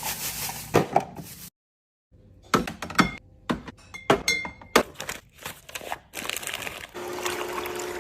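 Food containers being handled and set down while restocking a fridge: a run of sharp clicks and knocks, two of them ringing briefly like glass, between stretches of steady hiss.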